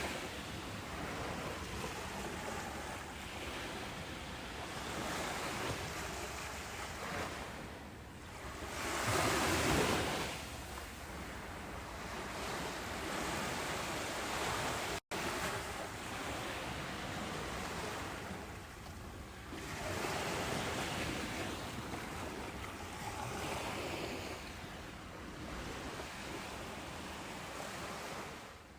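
Ocean surf washing ashore, a steady hiss of waves swelling and easing, with the biggest surge about nine to ten seconds in. A split-second dropout comes about halfway, and the sound falls away at the end.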